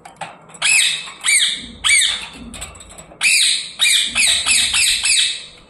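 Pet parrot giving about ten harsh, screeching squawks in quick succession, coming faster in the second half: alarm calls from a startled bird.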